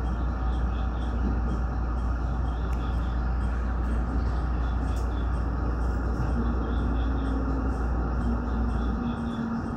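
Electric commuter train running slowly into a station, heard from the driver's cab: a steady rumbling ride noise over a deep hum that drops away near the end.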